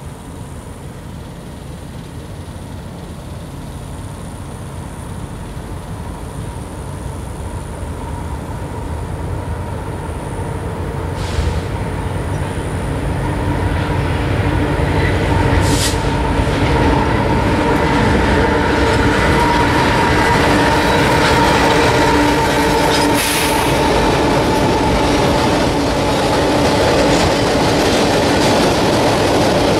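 A CSX mixed freight train approaching and rolling across a steel trestle. Its rumble grows steadily louder over the first half, with a few short high squeals, then holds as the steady rumble and clatter of the cars crossing the bridge.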